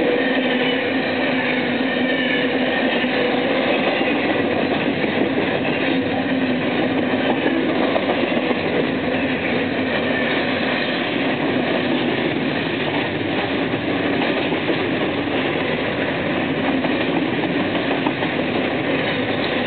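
BNSF freight train's cars rolling past without stopping: a steady, loud run of steel wheels on rail with rattling wagons and no let-up.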